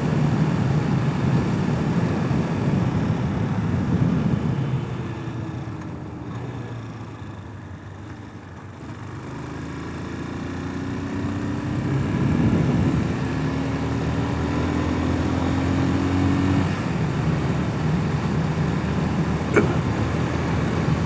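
250 cc enduro motorcycle engine running under riding wind noise. It eases off to a quieter coast about five to nine seconds in, then pulls away again with a rising engine note stepping through the gears, with a sharp click near the end.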